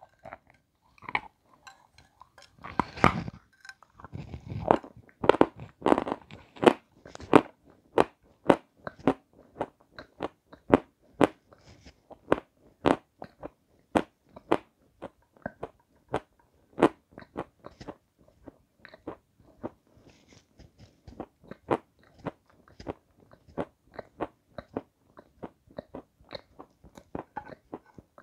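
Close-up biting and chewing of a hard, crunchy white block: a few loud, full crunches about three to seven seconds in, then a steady run of sharp crunches, about two to three a second, as it is chewed.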